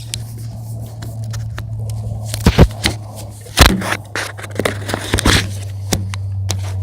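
Scattered sharp clicks and knocks of an RC car being handled and checked over for damage, with a steady low hum underneath; the loudest knocks come about two and a half, three and a half and five seconds in.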